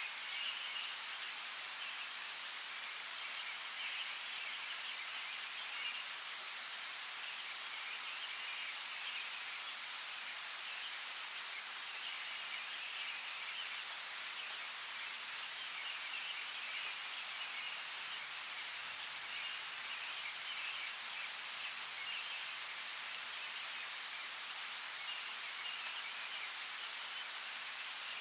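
Steady rain falling, with individual drops striking sharply now and then. Birds chirp in scattered clusters through it.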